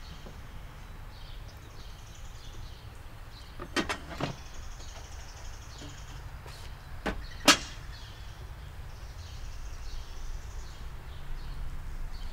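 Outdoor ambience: a low steady rumble with faint high chirping, broken by a few sharp clicks and knocks, a cluster about four seconds in and two more about seven seconds in, the last of them the loudest.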